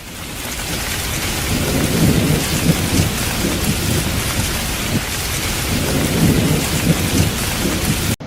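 Heavy rain of a thunderstorm with low rolling thunder rumbling underneath. It fades in over the first couple of seconds and cuts off abruptly near the end.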